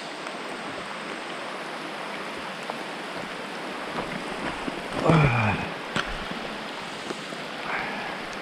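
Steady rush of a small mountain stream with rain falling. About five seconds in, a short voice sound falls in pitch.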